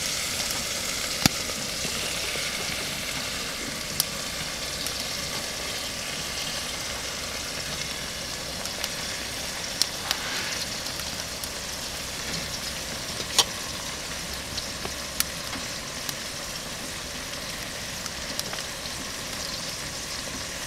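Sliced mushrooms sizzling steadily as they fry in an aluminium pot on a wood-burning stove, with a few sharp clicks over the sizzle.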